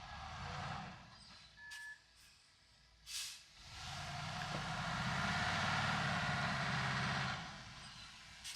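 Heavy diesel engine of construction machinery, a dump truck or bulldozer, working. A short hiss comes about three seconds in, then the engine revs up, runs hard under load for about four seconds and drops back.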